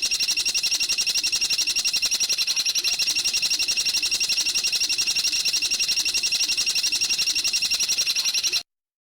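Recorded bird call: a long, machine-even rapid trill of high notes, about ten a second, that cuts off abruptly near the end.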